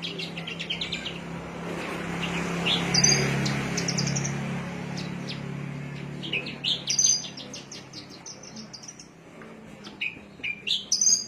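Small songbird chirping in short high notes and quick runs of notes, in several bursts. A low hum swells and fades beneath it in the first half.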